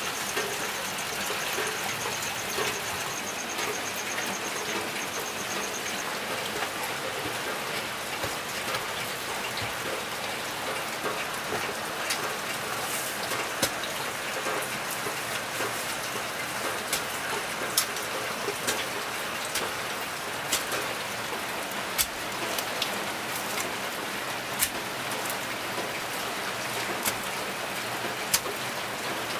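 Steady rain falling and pattering on surfaces, with sharp ticks every second or two through the second half. A faint, high, fast-pulsing call runs through the first few seconds.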